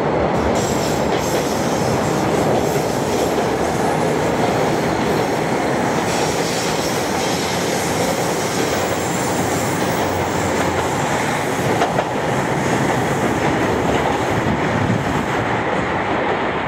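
Trains running close by over station pointwork: a steady rumble with wheels clattering over rail joints and points, and some high wheel squeal on the curves.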